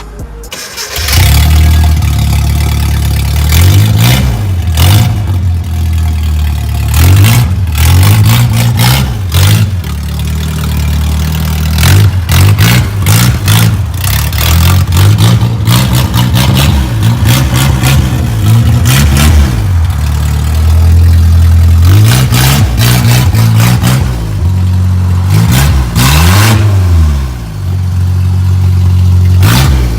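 Nissan D21 Hardbody pickup's engine revving over and over, its pitch rising and falling in repeated blips through a loud exhaust.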